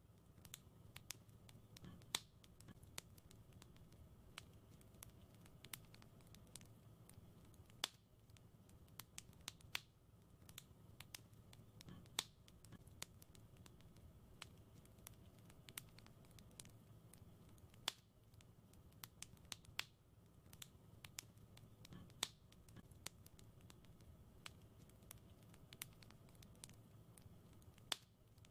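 Wood fire crackling: quiet, irregular snaps and pops, with a louder pop every few seconds, over a soft low rumble.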